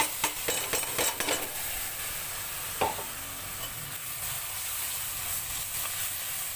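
Tomato and green chilli paste sizzling as it goes into hot onion-garlic-ginger masala in mustard oil in a kadhai. A steel spoon scrapes and clicks against the pan, several times in the first second and a half and once more about three seconds in.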